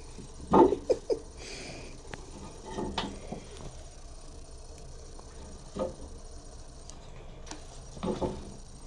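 A cat batting and pouncing on a catnip toy: scattered soft thumps and scuffles, the loudest just over half a second in, with a few more spread through the rest.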